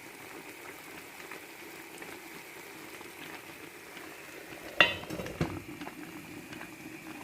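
Food bubbling and sizzling in pans on a stove, with a sharp metallic clink of cookware about five seconds in and a lighter one just after.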